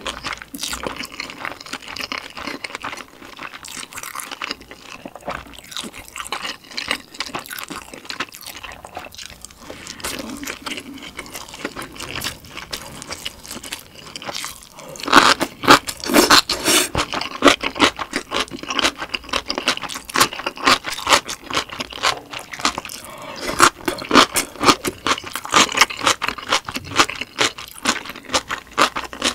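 Close-miked eating: soft chewing of a fried dumpling, then from about halfway loud, rapid crisp crunching as a piece of cucumber kimchi is bitten and chewed.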